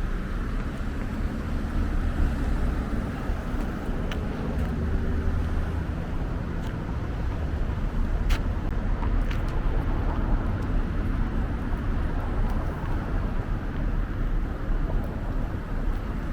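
Steady low rumble of outdoor street ambience, like distant road traffic, with a few faint sharp clicks.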